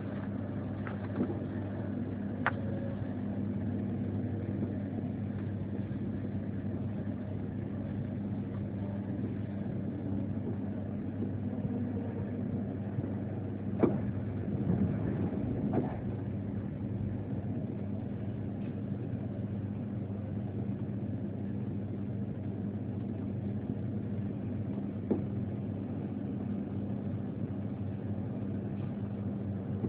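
Steady rumble and low hum of a passenger train running, heard from inside the carriage, with a few short knocks, the loudest about halfway through.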